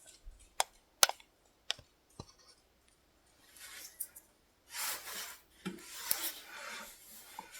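A few sharp clicks and taps, then from about halfway a cloth rubbing back and forth in strokes, working furniture wax into a surface.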